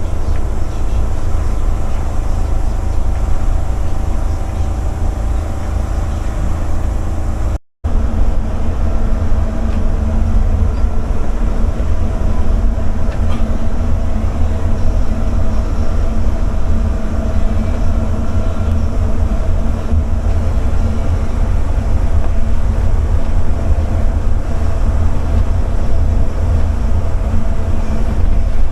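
Steady low rumble of engine and road noise inside a moving vehicle's cab, with a few faint steady tones; the sound cuts out for a moment about eight seconds in.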